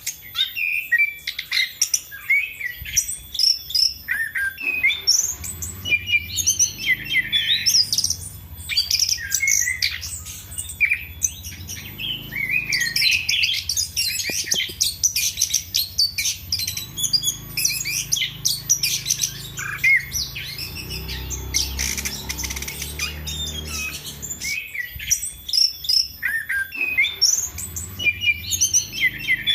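Chestnut-capped thrush (anis kembang) in full song. It keeps up a fast, varied run of high chirps and warbled phrases with only brief pauses.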